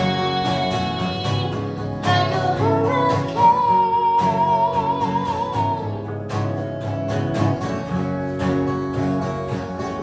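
Live song on acoustic guitar, strummed steadily, with a long held sung note with vibrato from about two to six seconds in.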